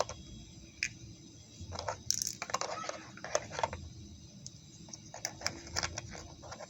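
Light clicks and taps of small plastic toy food pieces and a plastic toy fridge being handled, with a denser patch of rattling and rustling in the middle.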